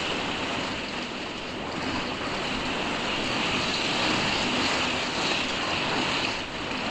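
Heavy rain pelting the roof and walls of a caravan, heard from inside as a steady, unbroken rushing noise.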